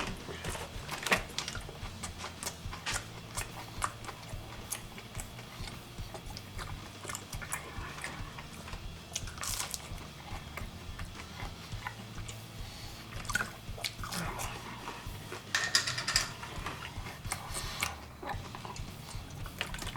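A man chewing and biting mouthfuls of McDonald's chicken nuggets, with wet mouth smacks and short clicks, over a faint steady low hum.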